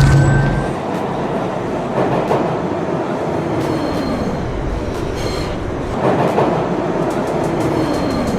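Subway train running on the rails: a steady rumble with a few short clacks and a brief high squeal near the start.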